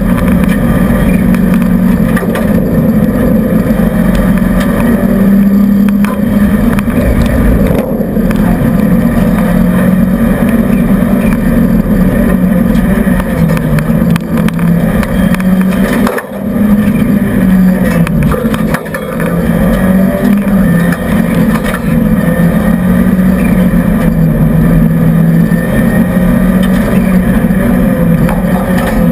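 Renault 5 GT Turbo's turbocharged four-cylinder engine at speed, heard inside the stripped rally cockpit. The engine note rises and falls in pitch throughout, with a brief drop in level about 16 seconds in and another near 19 seconds.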